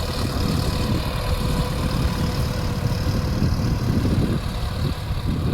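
Sonalika Tiger 65 tractor's common-rail diesel engine running steadily while pulling a cultivator through the field, with a steady low rumble and a faint constant whine.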